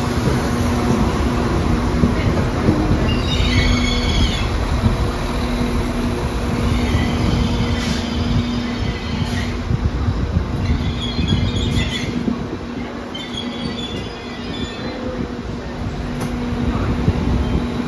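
Northern passenger train moving along the platform, its wheels squealing four times in high, wavering squeals over a steady low hum and rumble.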